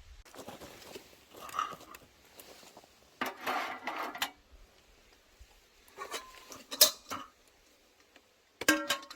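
Dishes and utensils clinking and knocking, several sharp clinks with a brief ring.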